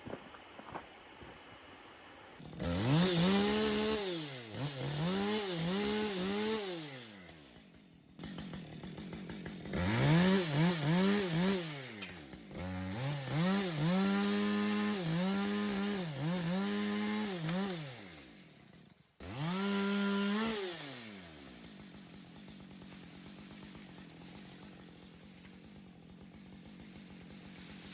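Two-stroke chainsaw revving in repeated bursts, climbing to full throttle and dropping back again and again as it cuts through brushwood. About three quarters of the way through it falls back to a steady low idle.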